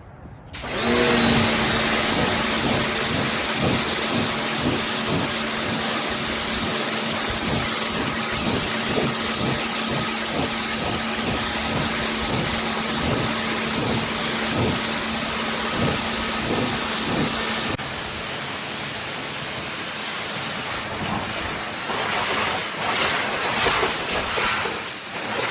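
Electric pressure washer running: a steady motor hum under the hiss of the high-pressure water spray. About 18 s in, the hum drops away and the spray hiss continues.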